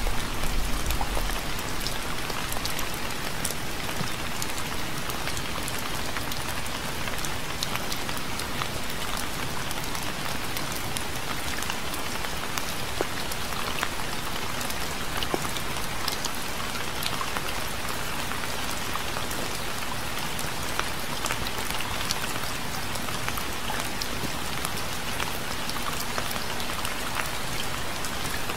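Steady rain falling on a hard surface, with many separate drop ticks over an even hiss. A brief low rumble sits under it in the first second or so.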